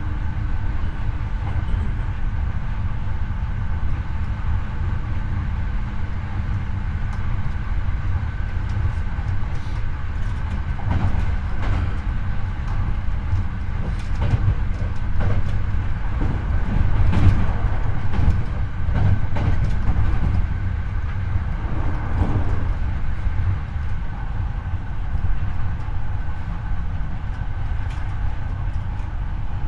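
Hankyu 8300 series electric train running at speed, heard from the floor of the car above its bogie: a steady low rumble of wheels on rail, with scattered clicks from rail joints and a thin steady whine.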